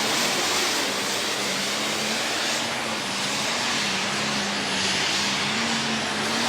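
Diesel super stock pulling tractor running at full throttle under load as it drags the sled, a loud, steady engine noise with a low tone that wavers slightly in pitch.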